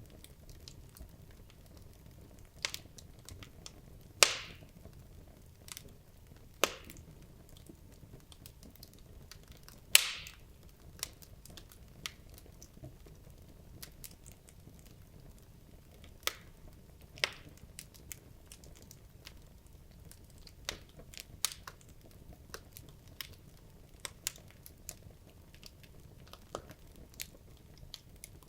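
Wood logs burning in a fireplace, crackling: irregular sharp pops and snaps over a low steady hiss of the fire, with two louder pops about four and ten seconds in.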